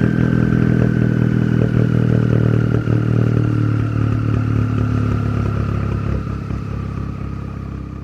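MK6 Volkswagen Jetta's turbocharged four-cylinder engine idling high on a cold start, loud and raspy through a downpipe and straight pipe with nothing to muffle it. A steady whine rides above the exhaust and sinks slowly in pitch, and the sound grows quieter near the end.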